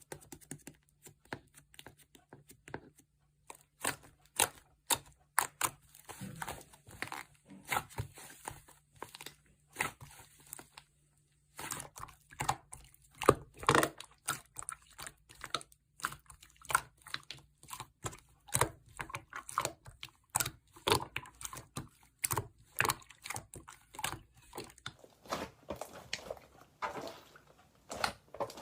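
Slime being squeezed, stretched and pressed by hand, giving a dense run of sticky clicks and crackling pops.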